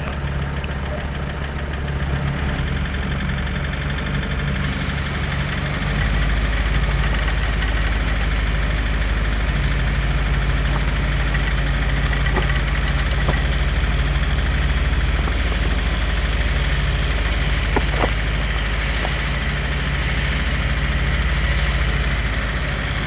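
Vehicle engine idling steadily, its low rumble growing stronger about six seconds in, with a few faint clicks.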